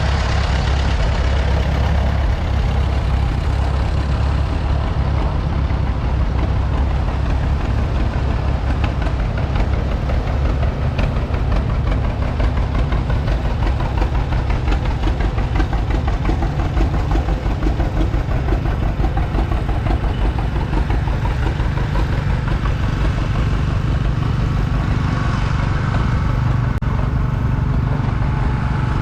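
Farmall H tractor's four-cylinder engine running steadily at low speed, its note rising a little near the end.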